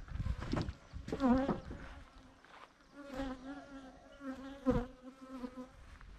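Honeybees buzzing close to the microphone: a quick wavering pass about a second in, then a steady hum from about three seconds in until near the end. They are defensive bees chasing the beekeeper away from the hive. A single sharp knock comes partway through the hum.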